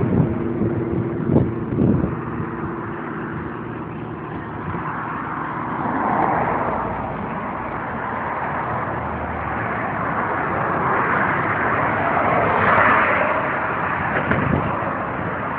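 Motor vehicle running, with a rushing noise that swells about six seconds in and again near thirteen seconds.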